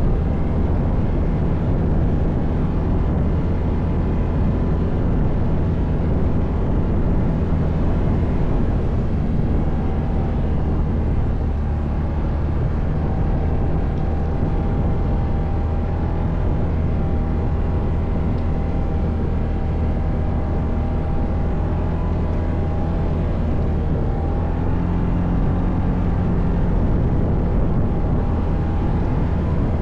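ATV engine running steadily while riding offroad, its pitch wavering slightly with the throttle.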